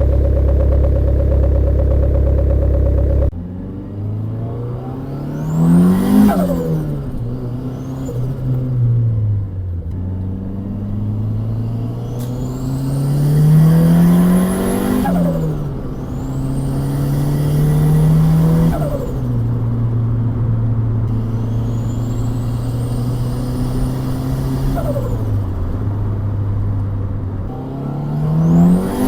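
After about three seconds of a steady low drone, a turbocharged Honda Civic D16Y8 1.6 engine pulls through several hard accelerations: the revs climb with a rising turbo whistle, then drop away at each throttle lift with turbo flutter (compressor surge).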